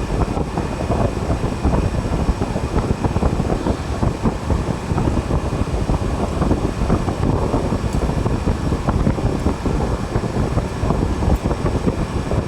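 Display chiller's refrigeration unit running, giving a steady rushing noise from its fan with a faint constant high whine.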